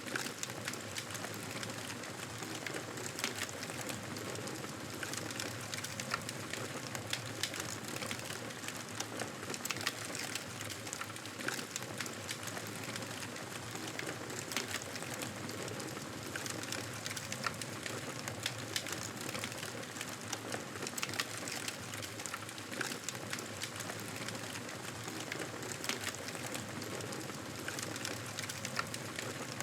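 Wood fire crackling steadily, with frequent small pops and snaps over a soft hiss.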